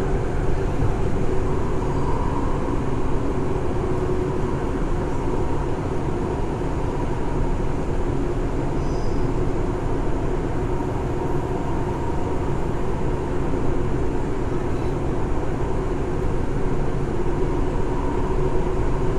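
Steady running noise heard inside a Nagoya Municipal Subway 3000-series car: a low rumble with a steady hum, at an even speed.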